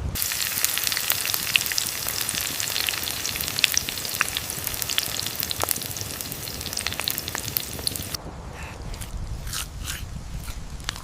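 Steady sizzling hiss thick with sharp crackles, like food frying over a fire. It cuts off suddenly about eight seconds in, leaving a few scattered faint clicks.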